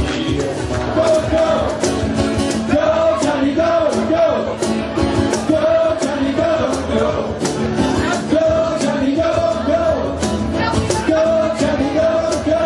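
Live rock band playing with a steady drum beat and a repeating melodic figure, with some singing.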